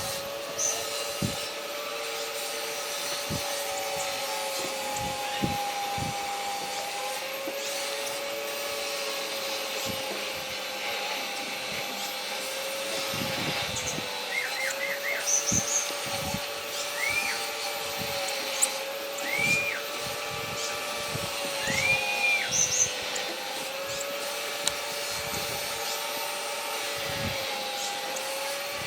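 Small birds giving short, arched chirps, a quick run of four about halfway through and then single calls every few seconds, over a steady machine-like hum and light tapping or knocking.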